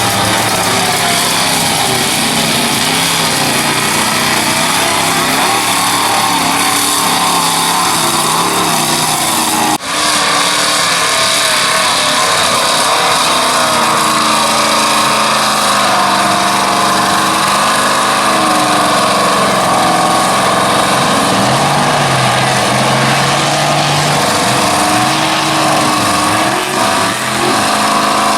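Chevy mud truck engines running hard, their pitch wavering up and down as the throttle works. The sound breaks off sharply for a moment about ten seconds in, then carries on.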